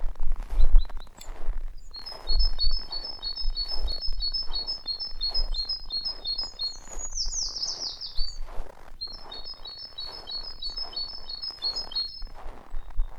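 A small songbird singing a repeated series of short, high chirping notes, broken in the middle by a quick run of falling notes. Underneath, footsteps crunch in snow at a steady walking pace, with low rumbles on the microphone.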